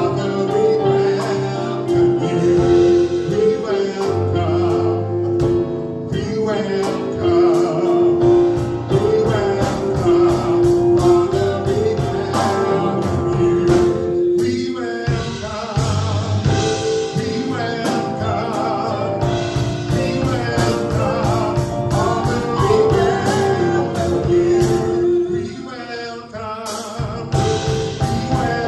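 Live gospel praise and worship music: a band with singers over a steady beat. It drops back briefly near the end before coming back in.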